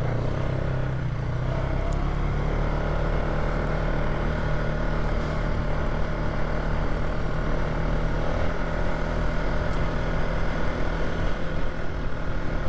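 Polaris ATV engine running at a steady speed while being ridden, its note holding even.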